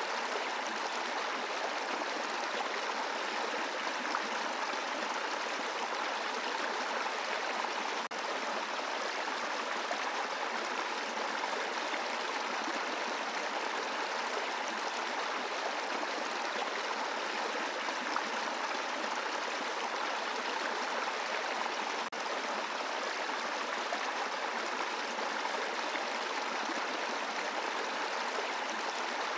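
Brook flowing over a bed of rocks: a steady rush and babble of shallow water with no let-up.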